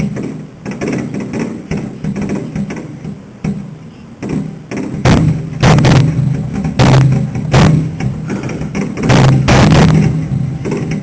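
Fireworks finale: aerial shells bursting, scattered bangs at first, then a rapid, loud barrage of booms from about five seconds in.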